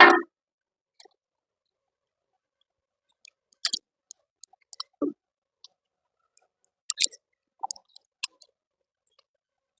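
Scattered light metallic clicks and taps of motorcycle gearshift parts being handled and fitted into an open engine crankcase, in small clusters a few seconds apart, after one louder short knock at the start.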